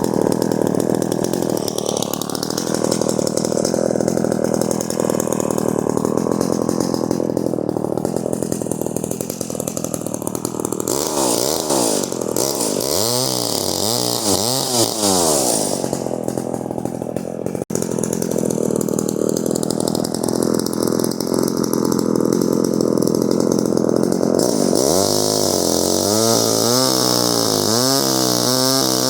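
Two-stroke chainsaw running hard, cutting firewood. It is revved up and down in several throttle sweeps around the middle and again near the end.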